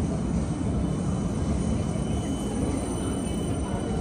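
Train running past, a steady low rumble with faint, thin high whines over it.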